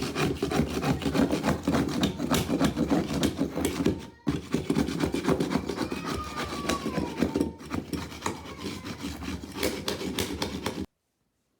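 Dense, rapid scraping and rubbing from carpet repair work, a quick run of strokes with a brief break about four seconds in, cutting off suddenly near the end.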